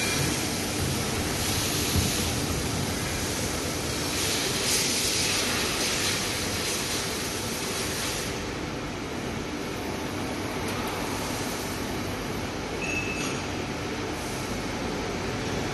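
CNC panel bender (folding center) running: a steady mechanical rumble with swells of hissing that stop about eight seconds in, leaving a duller running noise, and a brief high beep-like tone near the end.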